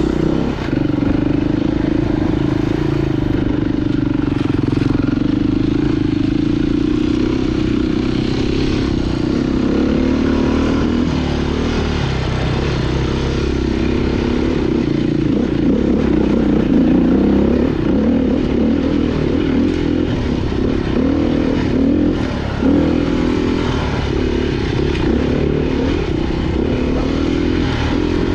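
Off-road motorcycle engine running hard, its revs rising and falling over and over while it is ridden over rough ground.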